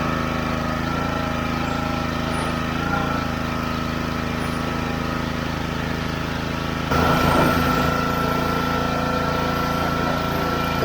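Gas-engine pressure washer running steadily, its motor and pump making a constant drone. About seven seconds in it steps up suddenly louder and holds there.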